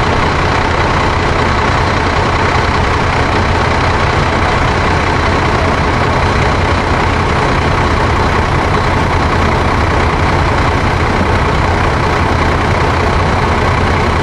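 Large vehicle's engine idling, a loud, steady, unchanging hum.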